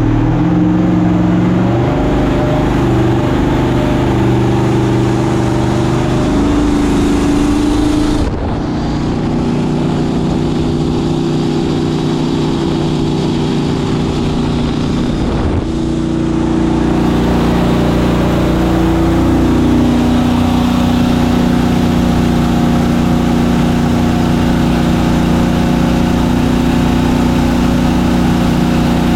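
Turbocharged engine of a mini jet boat running hard on a speed run, a loud steady drone whose pitch shifts in steps, with abrupt changes about eight and fifteen seconds in.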